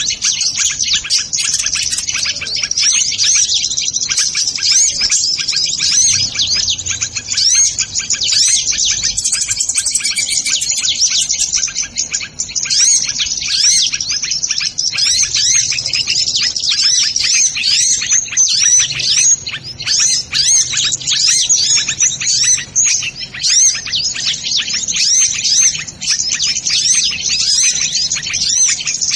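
Sunbirds ('kolibri ninja') chirping and twittering in a dense, unbroken stream of fast, high notes.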